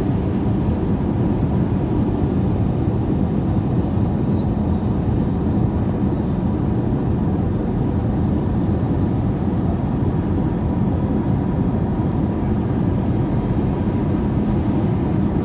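Steady cabin noise of an Airbus A321-200 in flight: an even roar of jet engines and airflow, with a faint steady tone running through it.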